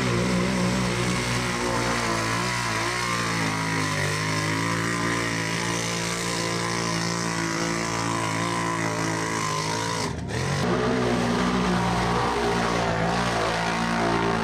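ATV engine running hard at high revs, its pitch wavering up and down with the throttle. The sound breaks off briefly and changes about ten seconds in.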